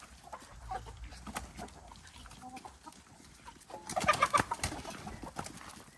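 Chickens clucking among scattered short scuffs and rustles, with a denser cluster of scratchy clicks about four seconds in.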